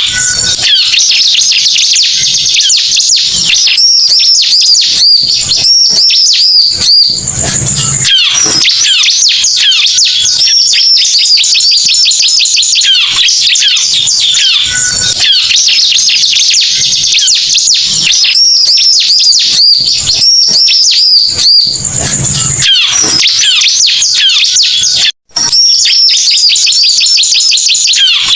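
Bar-winged prinia (ciblek) song played as a lure recording: dense, rapid, high chirps and trills in a loop that repeats about every 14 seconds. It cuts out for a moment about 25 seconds in.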